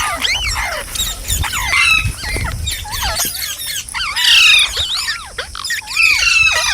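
Several green parrots calling at once: fast, overlapping squawks and chirps that swoop up and down in pitch, with a louder harsh squawk a little past the middle.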